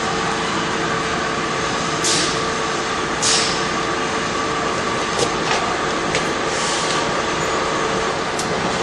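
Drain-cleaning machine running steadily while its root-cutting head works in the sewer line, a constant machine hum under a rushing noise, with a few short hisses about two, three and five seconds in.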